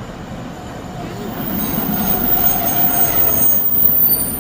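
Passenger train running into the station and braking to a stop, its wheels and brakes squealing over the rumble of the train. The sound grows louder, with the squeal coming in about a second and a half in.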